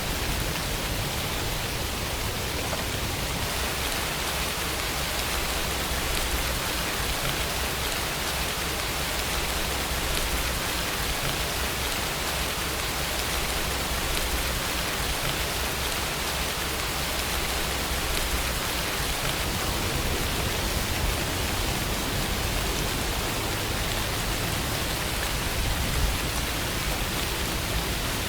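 Steady rainfall, an even hiss of falling rain with no thunder or other events.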